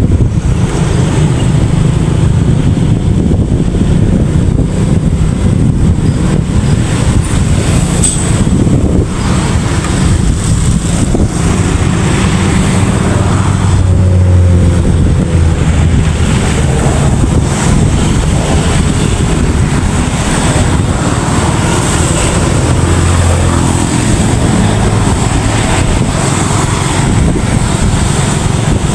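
Steady engine and road rumble of a moving vehicle, with wind on the microphone.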